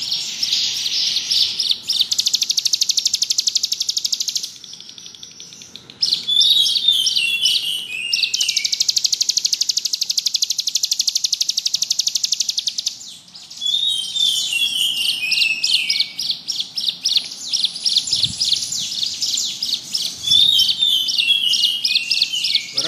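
A ciblek gunung, a prinia, singing loudly. Runs of short falling chirps each lead into a long, very fast buzzing trill lasting several seconds, the 'ngebrem' song style, repeated three or four times with short pauses.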